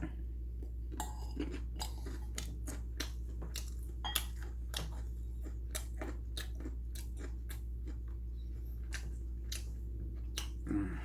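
A person chewing food close to the microphone, with irregular sharp mouth clicks and crunches a few times a second over a steady low hum.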